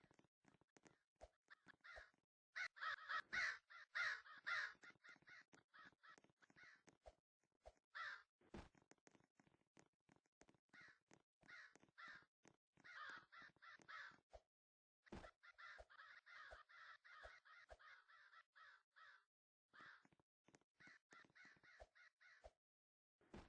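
A bird calling again and again in short rasping bursts, with many sharp clicks between the calls; the loudest run of calls is a few seconds in.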